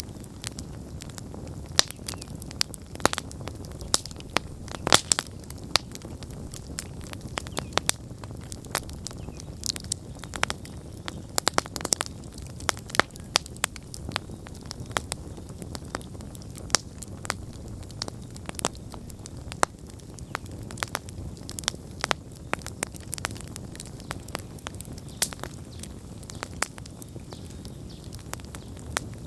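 Wood campfire burning with a steady low rumble and frequent irregular crackles and sharp pops.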